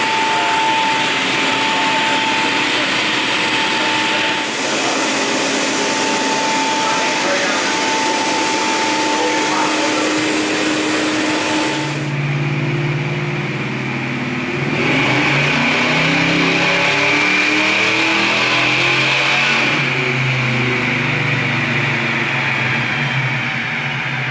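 1968 Ford Mustang fastback's engine running hard under load with a steady whine. After an abrupt change about twelve seconds in, it revs with its pitch climbing.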